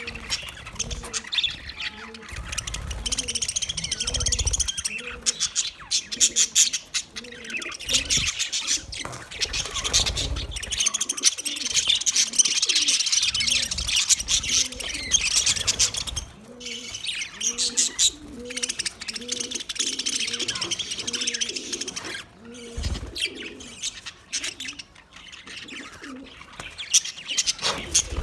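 Budgerigars chattering and warbling in a dense, high-pitched stream of chirps. Under it, a low cooing repeats at an even pace.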